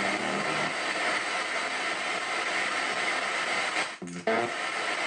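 Spirit box radio sweeping through stations in reverse: a steady rush of static, broken by short chopped fragments of radio sound. There is a brief dropout about four seconds in.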